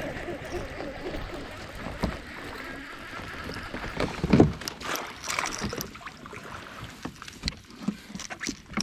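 A fishing kayak on the water: short knocks and splashes, with one louder thump about four seconds in.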